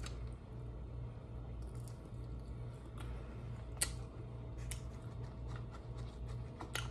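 Quiet chewing of a mouthful of chicken wing. A few faint sharp clicks come as fingers pick through food in a styrofoam takeout container, over a steady low hum.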